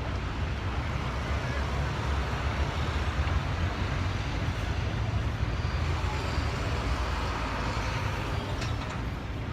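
A vehicle engine running with a steady low rumble, mixed with road or wind noise.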